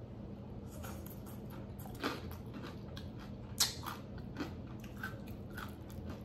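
Close-up chewing of a crunchy piece of fried Nashville hot chicken: scattered crisp crunches of the breading, the sharpest about two seconds in and again a little past three and a half seconds.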